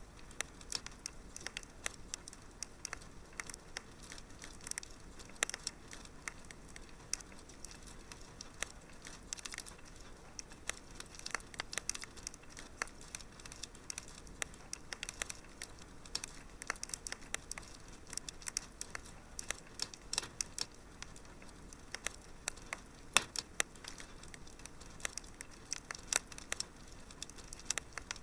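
Wood fire crackling in a fireplace: dense, irregular snaps and pops over a soft hiss.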